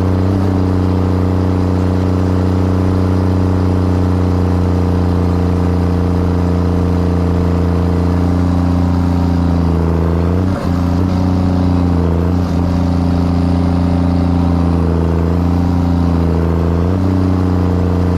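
A big diesel engine running steadily and loud, with brief dips in level about ten and twelve and a half seconds in and small shifts in pitch.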